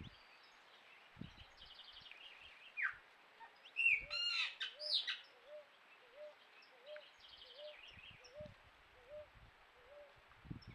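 Wild birds calling: a burst of loud, sweeping whistled calls about four seconds in, quick chattering notes, and a steady series of short low hooting notes, about one every 0.7 seconds, through the second half.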